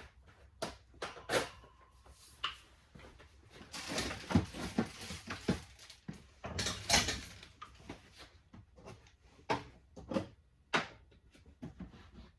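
Irregular knocks, clicks and scraping of hands and tools working at a stuck part on the car, with longer scraping spells about four and seven seconds in.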